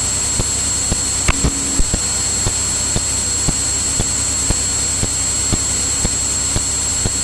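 Steady in-flight cabin noise of a Cirrus single-engine piston airplane, engine and propeller, heard through the intercom recording. A thin high electrical whine sits over it, and a faint tick repeats about twice a second.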